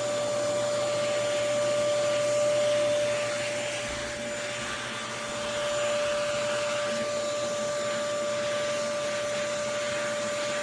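Pet grooming vacuum running steadily: a steady whine over an airy rushing of suction, dipping briefly in level about halfway through.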